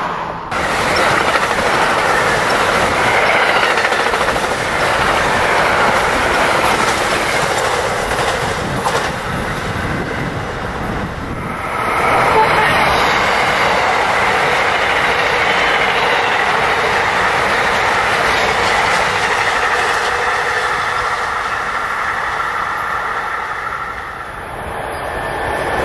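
Electric passenger train running along the rails, wheels clattering. The sound changes abruptly about half a second in and again about twelve seconds in.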